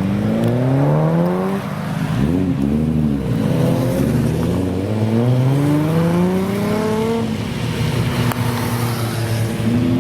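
Toyota Supra engine revving: its pitch climbs at first, then quickly rises and falls about two seconds in, then climbs again for several seconds before settling to a steady note, with a last quick rise and fall at the end.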